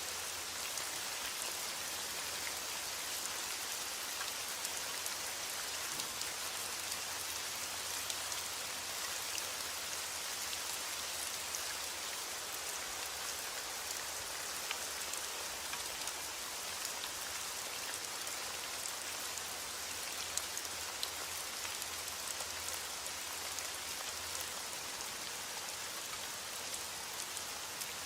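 Steady rain falling, with a dense hiss and many small droplet ticks. There is no thunder.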